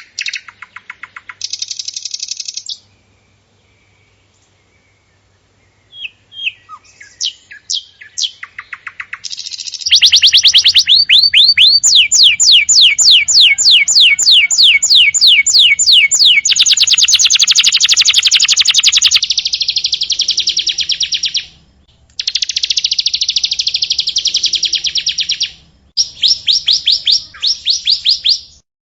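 Songbird song played as a tutoring recording: phrases of rapid high chirps and trills, with a pause of a few seconds early on. The loudest stretch is a long run of fast, evenly repeated sweeping notes, about five a second, followed by dense buzzy trilling. Near the end the trilled phrases break off twice, briefly.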